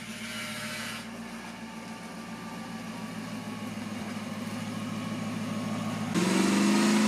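Lexus SC400's V8 engine running as the car rolls slowly past, gradually growing louder. About six seconds in it gets suddenly louder and its pitch climbs as the engine revs up.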